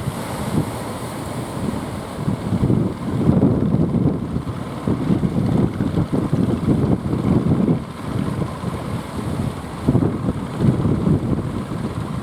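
Strong wind buffeting the microphone in uneven gusts, a low rumble that swells and drops every second or so.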